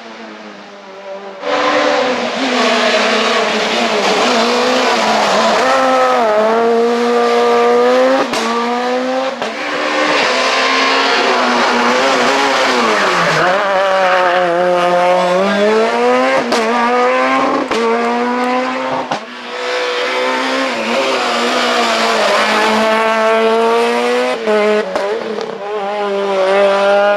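Super 2000 rally car's two-litre four-cylinder engine at full race revs, rising in pitch as it pulls through each gear and dropping sharply at gear changes and under braking. The engine comes in loud and sudden about a second and a half in and keeps revving hard through several gear changes.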